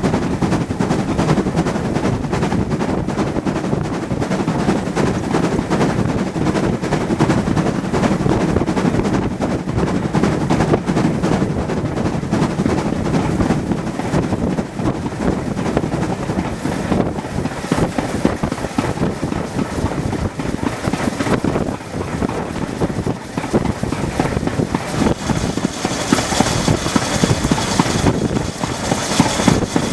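Train running, a loud rumble with dense rapid clattering; from about 25 seconds in a hiss rises above it.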